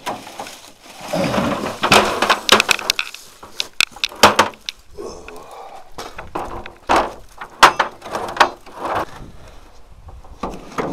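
Split firewood logs clattering and knocking against one another as they are handled and dropped onto a pile, a string of sharp irregular wooden knocks.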